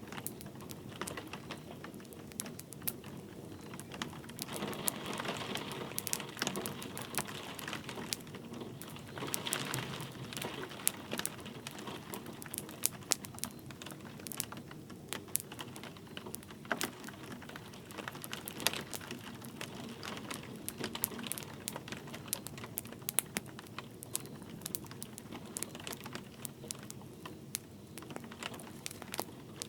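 Wood fire crackling in a fireplace, with sharp irregular pops, over the steady patter of light rain.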